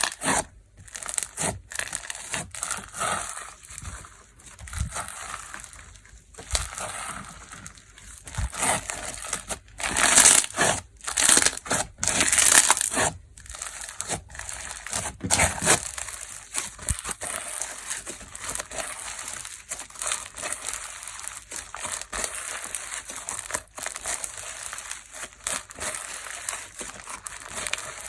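TAMR fugashi-style textured slime being squeezed and kneaded by hand, giving dense crackling and crinkling crunches that are louder in the first half and softer later on.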